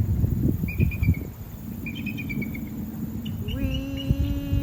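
Eagle giving its high, chattering call: two quick runs of short, falling notes, about a second apart. About three and a half seconds in, a steady humming tone with several pitches starts, over a low rumble of wind on the microphone.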